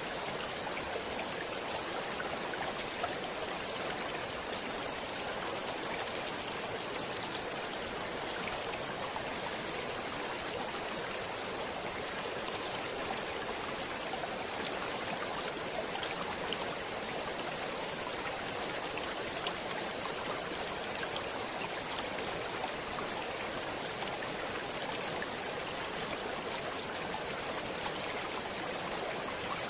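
Stream water running over rocks: a steady, even rush with faint splashes and trickles.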